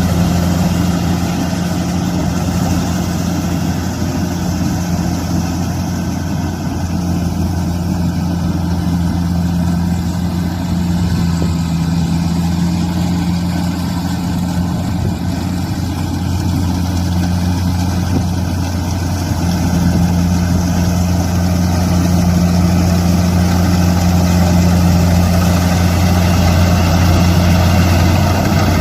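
Kubota combine harvester's diesel engine running steadily with a deep, even hum, getting slightly louder in the last third.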